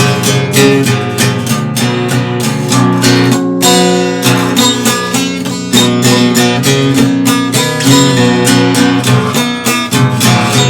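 Guitar strummed in a steady rhythm of chords, an instrumental passage of the song with no singing.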